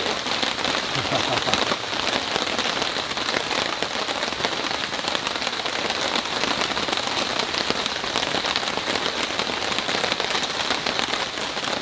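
Heavy rain falling steadily, a dense patter of large drops.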